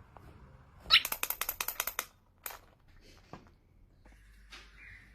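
A parrot gives a short squawk about a second in, followed by a fast run of about ten sharp clicks over the next second and one more click shortly after.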